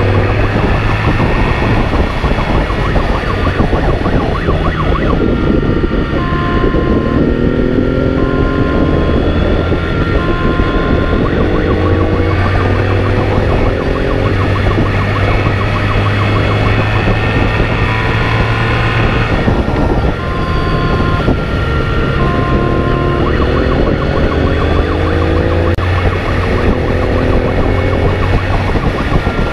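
A car's engine accelerating hard, its pitch climbing in long runs and dropping back at each gear change, over dense road noise. A beeping tone repeats about every two seconds, in two stretches.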